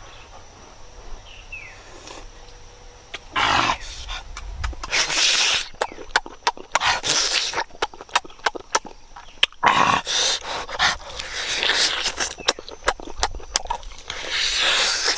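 Eating mouth sounds: repeated wet smacking clicks with short slurping or sucking bursts at irregular intervals.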